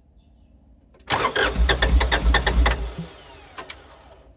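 Terex TA1EH site dumper's diesel engine being cranked by the starter for about two seconds with a fast knocking rhythm, then stopping suddenly as the electrical power cuts out again, a fault the owner puts down to a 15 amp breaker that keeps blowing.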